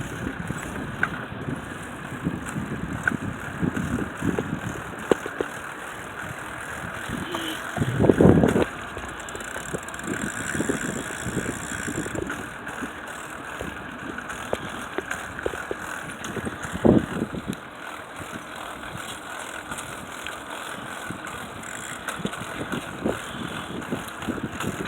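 Bicycle riding noise: tyres on pavement with rattles and knocks from the bike. There are two louder thumps, one about a third of the way in and one past the middle.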